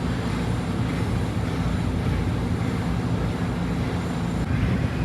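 A steady, low engine drone with no revving.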